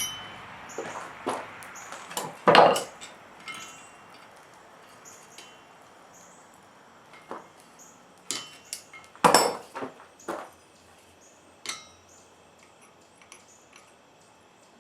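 Scattered, irregular light hammer blows and metal clinks on wrought iron at the anvil, each with a short metallic ring, as detail is worked into a forged piece. The strongest strikes come about two and a half seconds in and again about nine seconds in.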